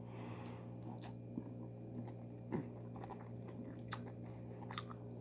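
A person chewing a handful of rice with yogurt and cucumber: soft mouth sounds and a few scattered small clicks and smacks over a steady low hum.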